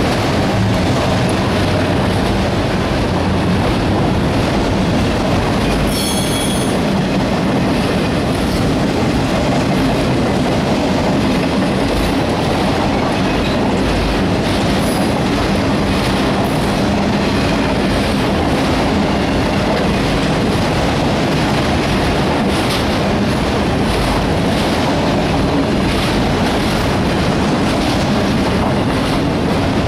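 Autorack freight cars rolling past on a curve: a steady, loud rumble of steel wheels on rail with clicking over rail joints. About six seconds in comes a brief high wheel squeal, typical of wheel flanges grinding on a curve.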